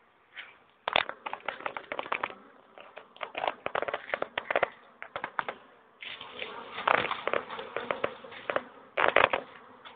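Honeybees buzzing around an open hive, heard as irregular crackly bursts close to the microphone, starting about a second in and pausing briefly twice.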